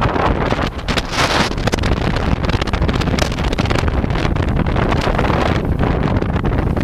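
Car driving along a road: a steady rumble of road and engine noise, with wind buffeting the microphone.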